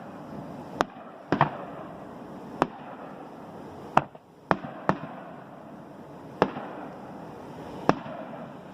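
Aerial fireworks going off: about eight sharp bangs at uneven intervals, one to two seconds apart, over a steady background hiss.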